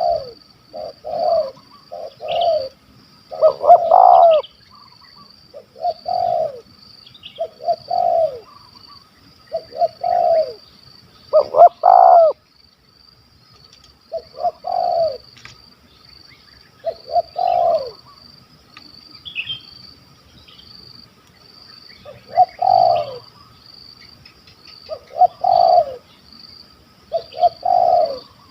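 Spotted doves cooing, short coos in groups of two or three repeated every couple of seconds, with a steady faint high-pitched whine behind them.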